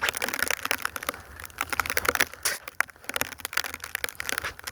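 Snow crunching and crackling in quick, irregular crunches as deep snow is dug into and scooped.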